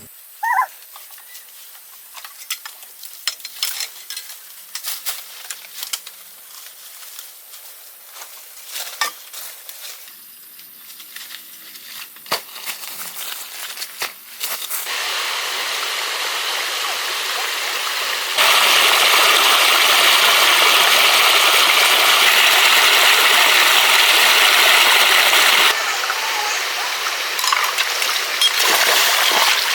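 Scattered light clicks and taps, then rushing water from a waterfall or stream that starts about halfway through, gets suddenly louder for several seconds and then drops back to a lower rush.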